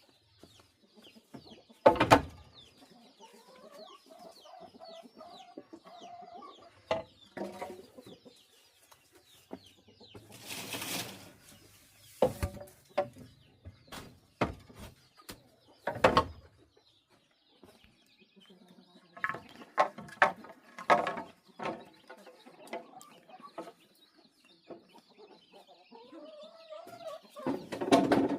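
Chickens clucking, with several sharp knocks in between; the loudest knock comes about two seconds in.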